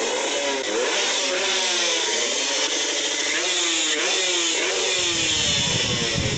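Racing motorcycle engines revving hard and high-pitched, their pitch climbing and dropping again and again as they pull away.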